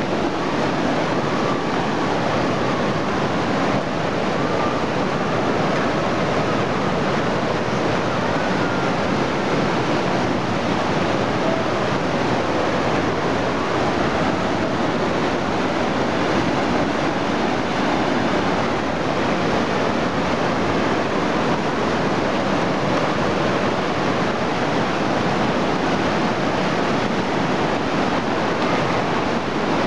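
River water rushing steadily and loudly below a wire footbridge, loud enough to drown out a voice.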